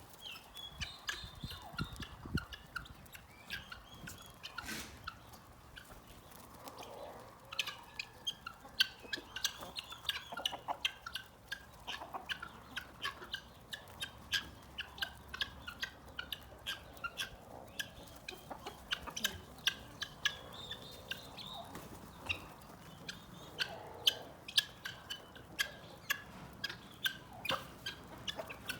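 Chickens clucking here and there, among many short sharp chirps and ticks.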